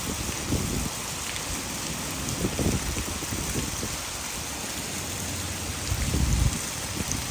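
Heavy rain falling steadily, blended with water pouring from a hydroelectric dam, picked up on a phone microphone. A few short low rumbles come through, the loudest about six seconds in.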